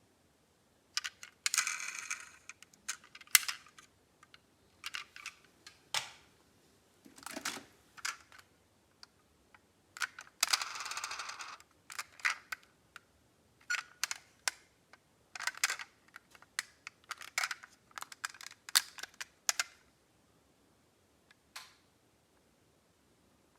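Die-cast metal model cars being handled: irregular sharp clicks and clinks as they knock together and are set down, with two longer rattling stretches, about two seconds in and again about eleven seconds in.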